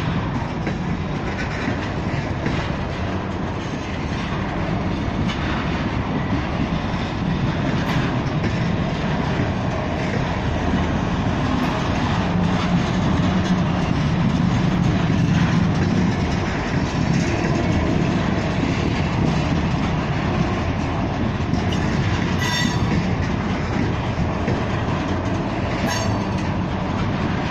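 Railroad tank cars of an oil train rolling past close by: a steady rumble of steel wheels on the rails. A brief high-pitched wheel squeal comes late on.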